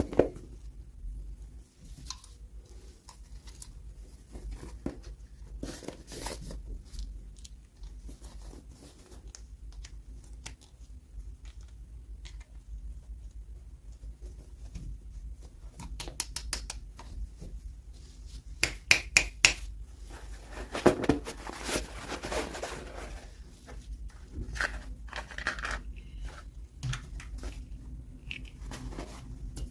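Hands handling and opening toy packaging: scattered clicks and taps with rustling, a quick run of sharp clicks about two-thirds of the way through, then a few seconds of tearing and crinkling.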